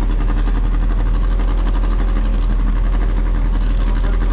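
A race car's engine idling steadily, heard from inside its stripped, roll-caged cabin.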